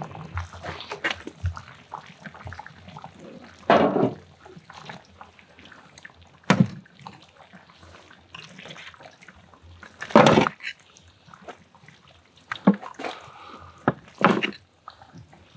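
Liquid splashing and dripping with small clicks and several short, sharp clatters, about five in all, from the pot where the boiled pig's trotters are being handled.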